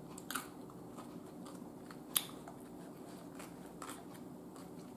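Quiet eating sounds: a person chewing crisp cucumber slices, with a few short sharp crunches, the loudest about two seconds in, and fingers picking at a plastic food tub. A faint steady hum runs underneath.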